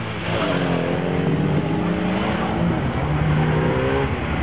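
Moskvich sedan's four-cylinder engine revving hard as the car accelerates away. The engine note rises, dips about two and a half seconds in, then holds steady.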